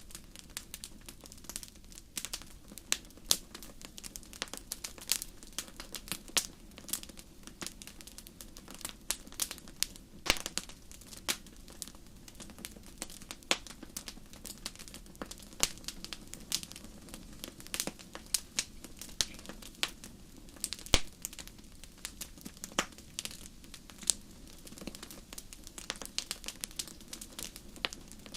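Fire in a fireplace crackling: irregular sharp pops and snaps, a few of them louder, over a low steady rumble.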